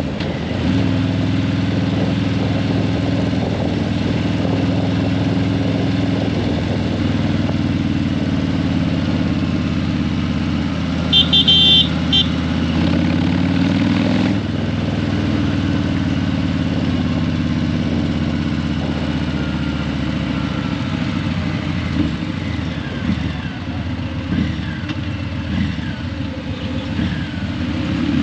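Harley-Davidson Breakout 117's Milwaukee-Eight 117 V-twin, breathing through Vance & Hines Eliminator 300 slip-on mufflers, running steadily while riding in traffic. About eleven seconds in, a vehicle horn honks in a few short toots.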